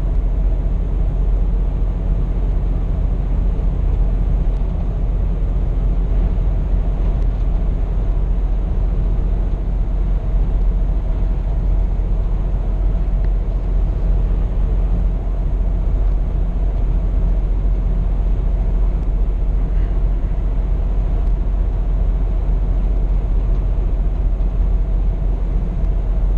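Scania P420 truck's six-cylinder diesel engine running steadily under way, heard from inside the cab as an even drone mixed with road rumble.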